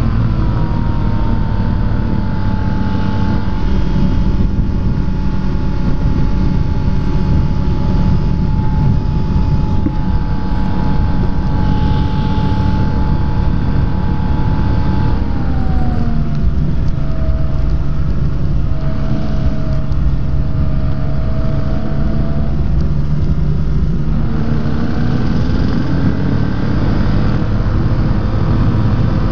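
Rotax engine and propeller of a Quad City Challenger ultralight running steadily under heavy wind rush in the open cockpit. About halfway through, the engine pitch glides down as it is throttled back, and it rises again a few seconds before the end.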